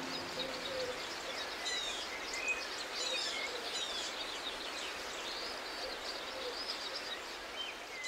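Wild birds calling: many short chirps and falling whistles over a steady background hiss, with a few short low wavering calls.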